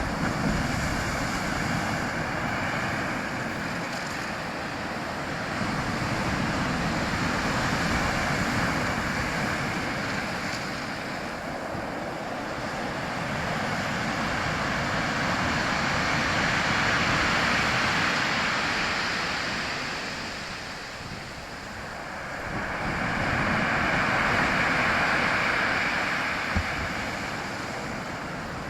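A steady rushing noise of water and wind that swells and fades back slowly, with about three broad swells some eight seconds apart.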